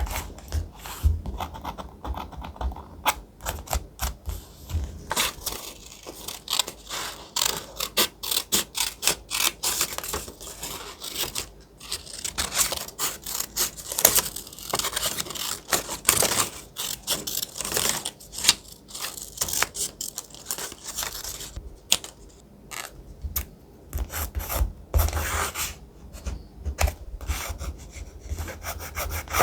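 Thick paper being handled and rubbed for a collage journal page: a continuous run of crisp rustles, scrapes and crackles.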